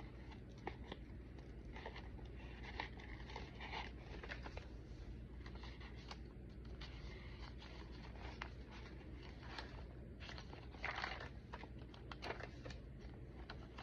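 Paper pages of a thick handmade junk journal being handled and turned: soft rustling and crinkling with scattered small clicks, a little louder about eleven seconds in.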